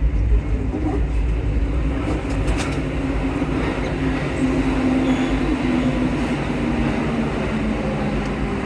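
Rubber-tyred MP14 metro train running through a tunnel, heard from on board: a steady low rumble with a held hum that is strongest around the middle.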